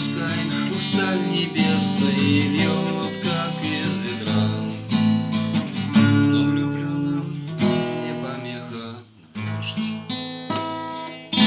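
Acoustic guitar strummed through an instrumental passage of a song, chords ringing, with a short break about nine seconds in before the playing resumes.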